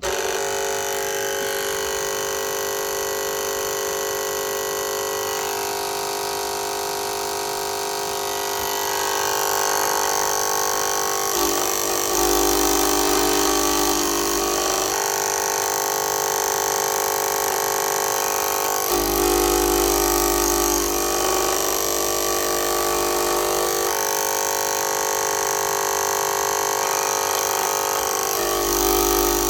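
Cricut Explore Air 2 cutting machine running with a steady motor whine, broken three times by louder grinding stretches of a few seconds each: about a third of the way in, about two-thirds in, and at the end. The grinding is a fault of the machine that its owner cannot explain.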